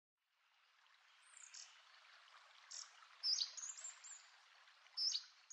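Faint birds chirping, a few short high calls spread over a soft steady hiss that fades in after about a second.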